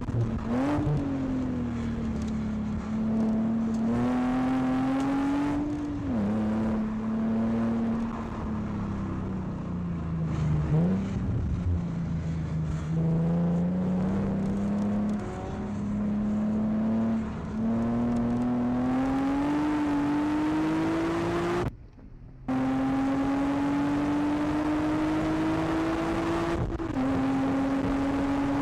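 Nissan 370Z's VQ37 V6 engine heard from inside the cabin while lapping a track: it revs up in long pulls, its pitch climbing steadily. Between pulls the pitch falls away while the car slows for the corners. A quick rev blip comes about ten seconds in, and the sound cuts out for about half a second near the end.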